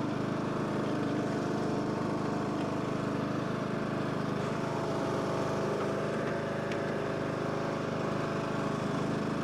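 John Deere LA105 lawn tractor engine running steadily at an even speed, with no misses or stumbles.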